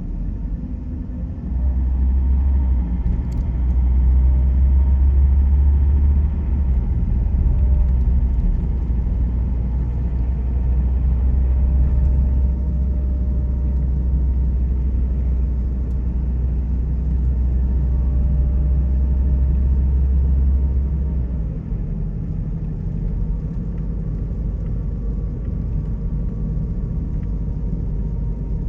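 A car driving on the road: a steady low rumble of tyres and engine, heavier from about two seconds in until about twenty-one seconds in.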